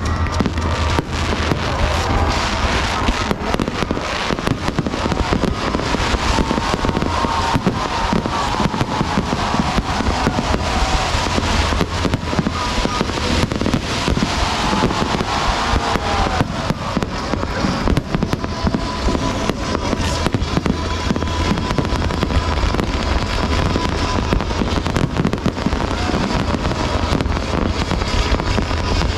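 Aerial fireworks display going off continuously: a dense, unbroken run of bangs and crackles.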